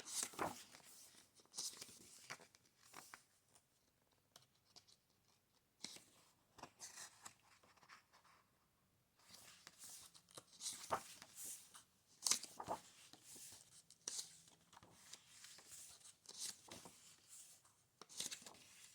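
Pages of a book being turned and handled: soft, scattered paper rustles, with a few louder ones in the middle.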